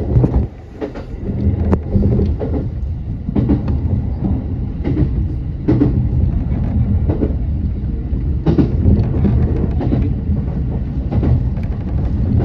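Electric train running on the line, heard from inside the driver's cab: a steady low rumble broken by irregular clacks as the wheels pass over rail joints and points.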